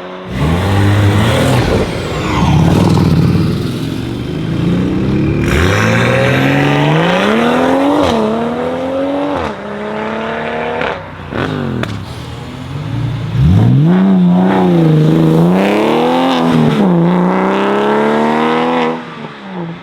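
Modified performance cars accelerating away one after another, engines revving hard. Engine pitch climbs and drops sharply at each upshift, twice in quick succession about eight and nine and a half seconds in, and later swings up and down as a car is revved.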